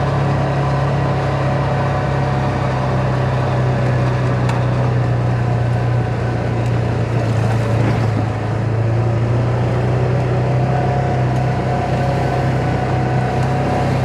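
Side-by-side UTV engine running steadily while riding, heard from on board as a constant low drone that eases briefly about eight seconds in.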